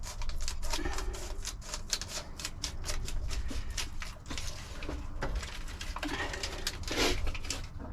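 Large scissors snipping and crunching through stiff foil-backed sound-deadening mat, with quick irregular clicks several times a second and a louder crunch near the end. The mat is hard going to cut.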